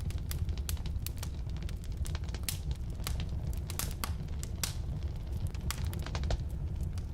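Firewood burning in a fireplace or wood stove: irregular sharp crackles and pops over a steady low rumble of the flames.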